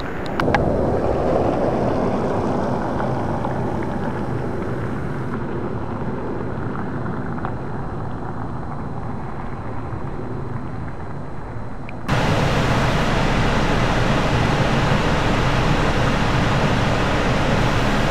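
Steady outdoor noise of wind on the microphone and distant rail traffic. About twelve seconds in the sound cuts abruptly to a louder, steady rumble as a Stadler FLIRT electric multiple-unit train runs along the line.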